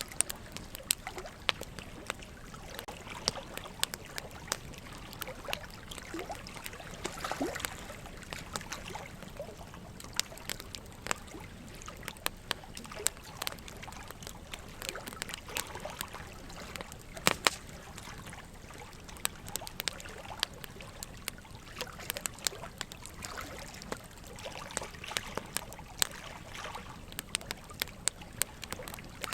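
Wood logs burning in a fireplace, crackling with sharp, irregular pops several times a second, one louder pop about two-thirds of the way through. Water trickles and sloshes steadily underneath.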